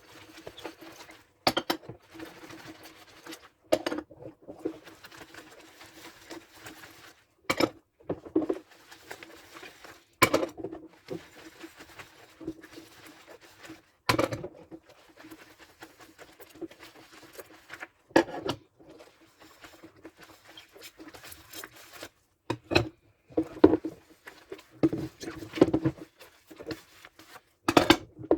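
Dishes being washed by hand: irregular clinks and knocks as crockery is handled and set down, with quieter scrubbing and rubbing between them.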